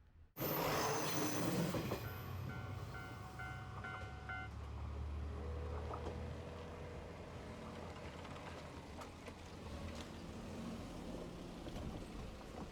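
Diesel train passing a level crossing, its wheel and engine noise starting abruptly, with the crossing's warning bell ringing about twice a second. The bell stops about four seconds in while the train's low rumble carries on.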